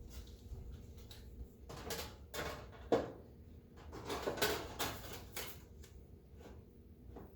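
Clatter and rattling from oven parts being handled during reassembly, in two bursts of quick clicks, with one sharp knock about three seconds in.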